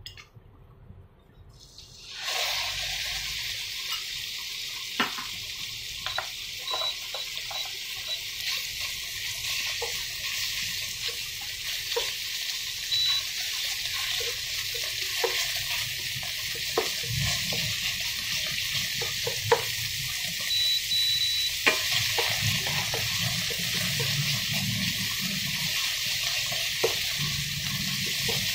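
Ground pork sizzling in hot sesame oil in a nonstick pan, the sizzle starting suddenly about two seconds in as the meat goes in, with a wooden spatula scraping and tapping as it is stirred.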